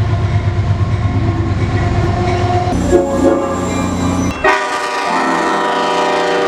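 Diesel freight locomotive passing with a low engine rumble, then its horn sounding loudly from about halfway in, the horn's pitch sliding down near the end.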